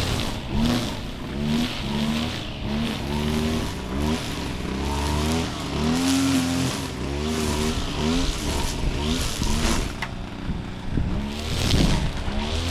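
Small petrol engine revving up and down in quick, repeated blips, its pitch rising and falling about twice a second over a steady low hum.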